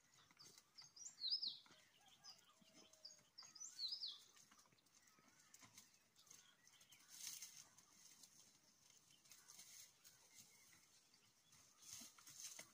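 Faint outdoor quiet with a small songbird chirping: two short runs of quick high, falling chirps, about a second in and again around four seconds in. Two brief soft hisses come around seven seconds and near the end.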